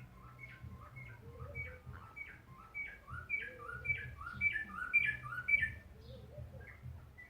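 Wild birds singing: a rapid run of short, repeated chirping notes that grows louder in the middle and eases off near the end, with a lower warbling phrase that recurs every second or so.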